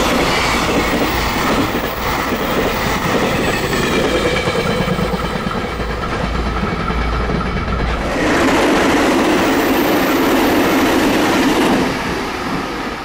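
A container freight train's wagons clatter past over the rail joints with a faint wheel squeal as the end of the train goes by. About eight seconds in, a louder, denser rush takes over as a blue express train passes at speed, then falls away near the end.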